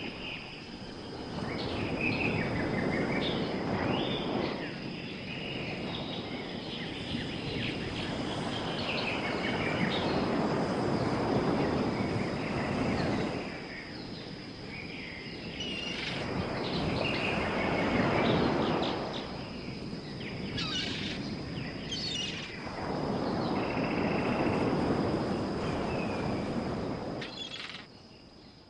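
Small birds chirping over a rushing noise that swells and fades about four times, with a steady high tone throughout.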